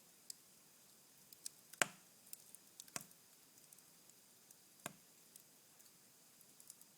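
Cherry wood fire in a fireplace, burned down to embers, crackling faintly with scattered small ticks and three sharper pops about two, three and five seconds in.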